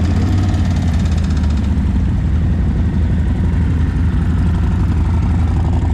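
Harley-Davidson V-twin motorcycle engine idling steadily with a deep, low rumble.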